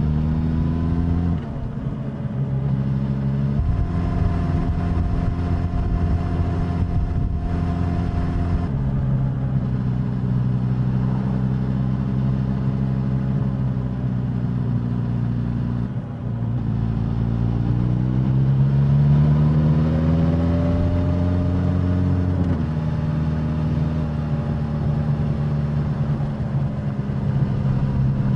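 Suzuki GSX-S1000's inline-four engine and exhaust while riding. The pitch climbs, drops about a second in and then holds steady. It dips again around halfway, rises in one long climb under acceleration, and falls back as the bike shifts up before settling to a steady cruise; near the end it starts rising again.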